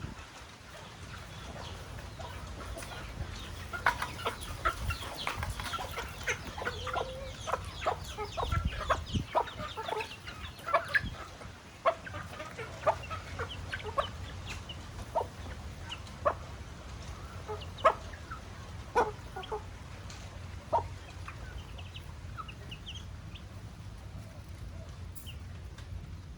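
Chickens clucking: a flurry of short clucks that thins out toward the end, over a steady low rumble.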